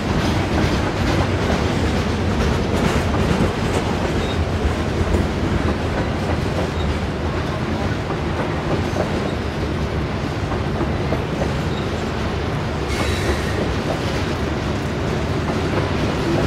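Loaded coal hopper cars of a freight train rolling past, steel wheels rumbling steadily on the rails with a running clickety-clack.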